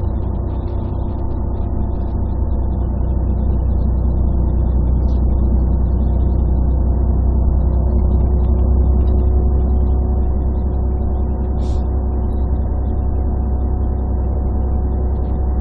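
Inside a 1998 Scania CN113CLL city bus under way: its Scania DSC 11 diesel engine and Voith automatic gearbox run steadily with a deep drone. The sound is bass-heavy and muffled because the phone's microphone was partly covered.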